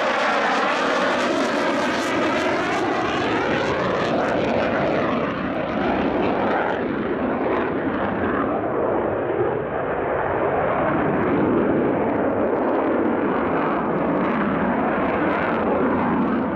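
Jet noise from a military fighter jet in flight, loud and continuous, with a swirling phasing sweep through the first few seconds. The top end dulls after about four seconds as the jet moves off.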